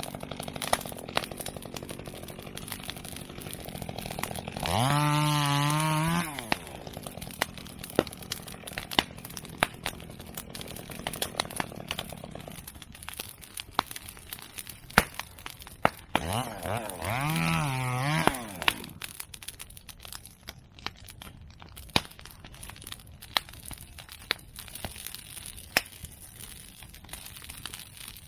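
Open fire of cut medake bamboo and chestnut prunings crackling, with sharp pops and snaps scattered throughout. Two drawn-out wavering tones, each about a second and a half, sound about five seconds in and again about seventeen seconds in.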